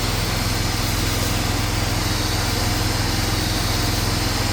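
Pressure washer's engine running steadily under a constant hiss of spraying water.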